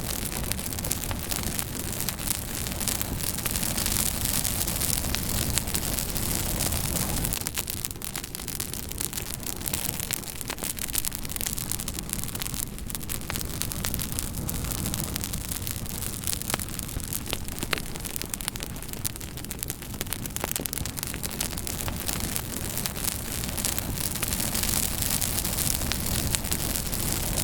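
Wood campfire crackling: a steady hiss of burning with frequent sharp pops and snaps scattered throughout.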